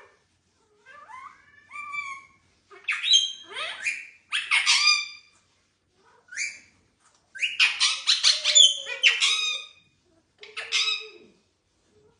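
Indian ringneck parakeet calling: a few gliding whistled notes, then loud, harsh squawks in three clusters separated by short silences.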